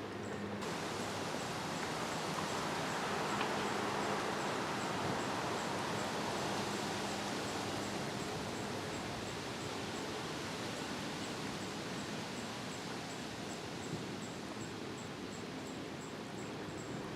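Small waves of Green Bay washing against a rocky shoreline in a steady, even rush.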